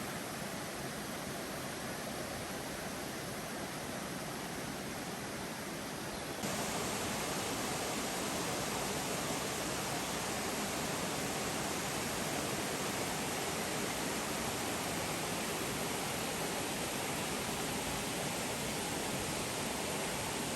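Steady rushing of a waterfall, an even wash of water noise. About six seconds in it jumps suddenly louder and brighter, then holds steady.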